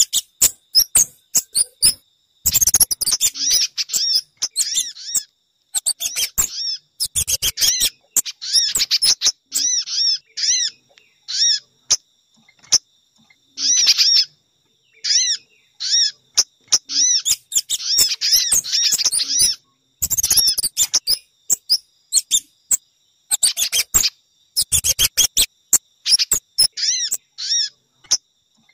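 Bird-lure recording of sogon, pijantung (spiderhunter) and kemade calls, played as repeated bursts of rapid high chirps and trills with short breaks between them.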